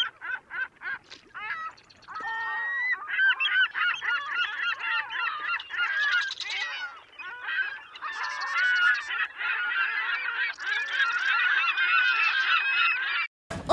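Gulls calling over one another: a dense run of many overlapping squawking calls that starts and stops abruptly.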